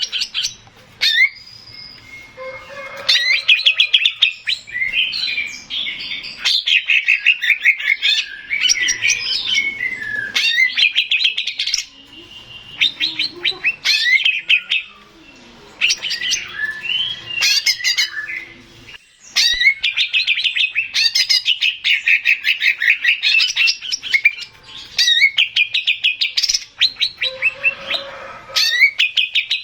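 Male green leafbird (cucak ijo) singing: loud phrases of very fast, rattling trilled notes, a few seconds each, broken by short pauses, with a quieter stretch of softer warbling notes about halfway through.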